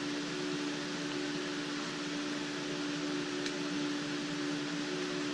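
Steady electric hum of a running fan or machine: an unchanging mid-pitched drone over an even hiss.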